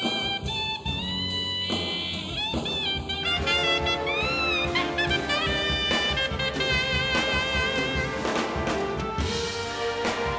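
Big band jazz playing: saxophones and brass over a drum kit, the full ensemble filling out a little louder about three seconds in.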